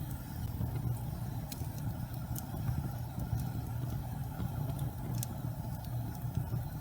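Gas fireplace flames burning with a steady low rumble, with a few faint sharp crackles scattered through it.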